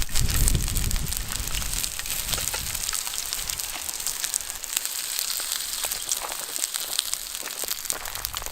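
Wood campfire crackling, with many small sharp pops over a steady hiss. A low rumble underneath fades out within the first few seconds.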